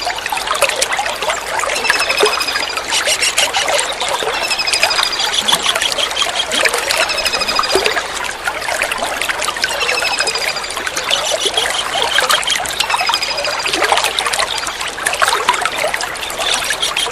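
Tengkek udang (dwarf kingfisher) calls: short, high, slightly falling trilled notes repeated about every second and a half, over steadily trickling water.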